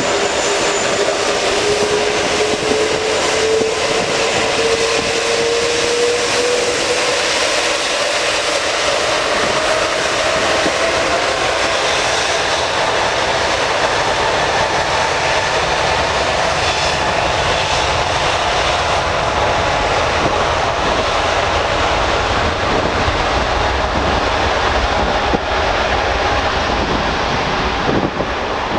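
Airbus A380's four Rolls-Royce Trent 900 turbofans at takeoff power during the takeoff roll: a loud, steady jet rush with a whine that rises in pitch over the first ten seconds or so, then holds.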